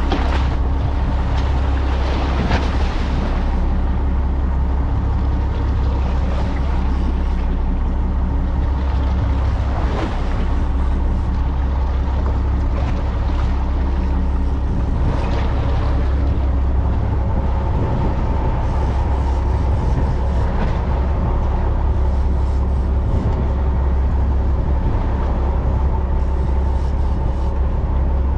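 Fishing boat's engine running at a steady, constant speed, a low drone with a wash of water and wind noise over it.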